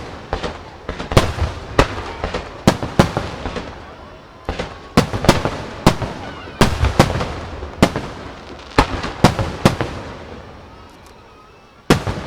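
Aerial fireworks shells bursting in a rapid, irregular volley of sharp bangs, each followed by a rolling echo. The bangs thin out about ten seconds in, and one more loud burst comes near the end.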